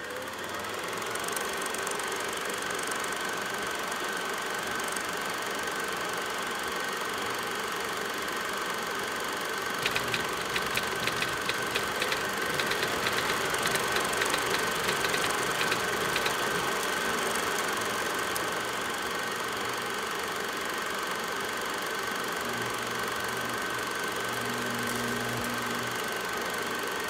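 A steady mechanical running drone with a held high tone through it, and a spell of rapid clicking about ten seconds in that lasts roughly six seconds.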